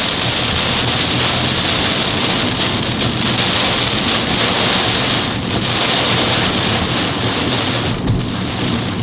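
Torrential cloudburst rain drumming on a car's roof and windshield, heard from inside the car as a dense, steady hiss.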